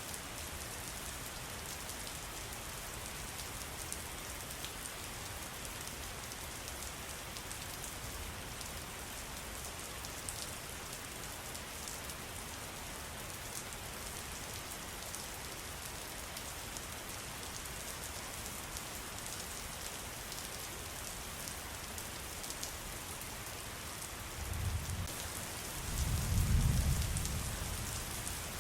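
Steady rain with a patter of drops, and a low rumble that swells for a few seconds near the end, like distant thunder.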